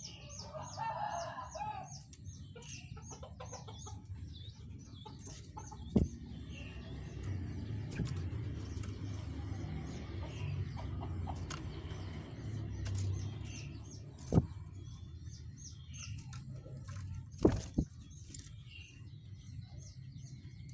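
Rengganis songbird singing: a rapid run of high chirps, about six a second, in the first few seconds, then scattered calls. Sharp knocks are loudest, at about 6, 14 and 17 seconds.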